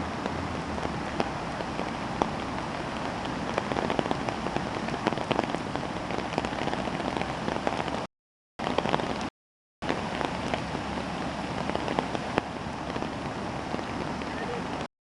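Steady rushing of water, dense with small splashes and crackles, typical of heavy rain and floodwater. The sound cuts out completely for a moment twice, about eight and nine and a half seconds in, and again just before the end.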